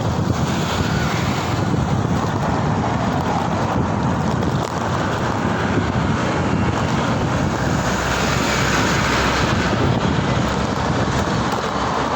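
Steady wind rush on the microphone during a ride, over road and traffic noise.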